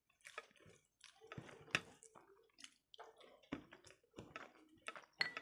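Close-miked hand-eating of rice and curry: wet chewing and mouth clicks, with soft squishing as fingers mash rice on a plate. Irregular, with sharp clicks about a second and a half in and near the end.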